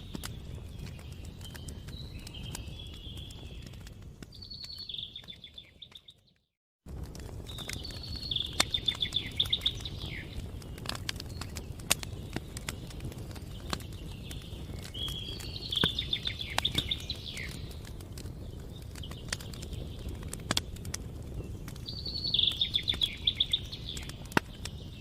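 Campfire crackling, with sharp pops over a steady low rumble, while a songbird repeats a short trilled phrase every few seconds. The sound cuts out completely for under a second about six seconds in.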